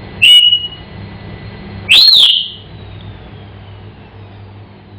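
African grey parrot giving two loud whistles: a short, steady one just after the start, and about two seconds in a higher one that rises and then falls.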